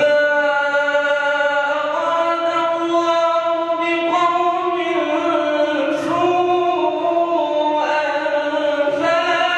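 A man reciting the Quran in a melodic, drawn-out style, holding long notes that step up and down in pitch.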